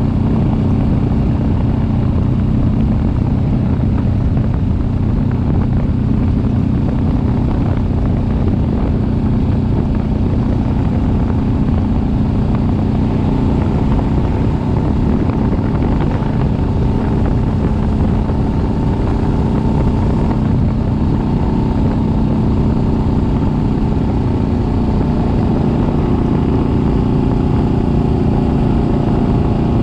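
Kawasaki Vulcan S 650 parallel-twin motorcycle engine running steadily under way, its pitch holding nearly constant with only slight shifts, under a continuous rushing noise.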